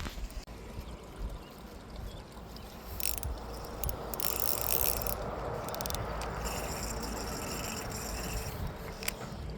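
Fishing reel being cranked: a mechanical whirring with fine rapid clicks that starts about three seconds in and runs on steadily.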